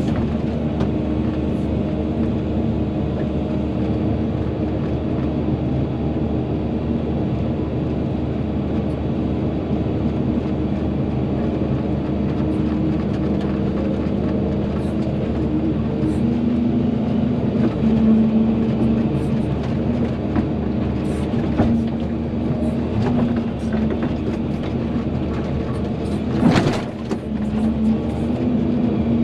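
Volvo EC220DL excavator's diesel engine running steadily under digging load, with faint knocks and clanks from the working gear. A brief sharp sound stands out near the end.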